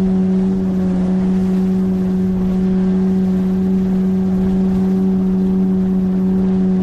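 A 9.8 hp outboard motor running at a steady cruising speed, its hum holding one pitch throughout, as it drives an inflatable PVC boat along the river.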